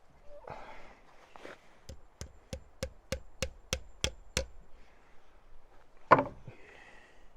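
Hammer driving a nail into wood: nine quick, even strikes, about three a second, followed a moment later by one louder, duller thud.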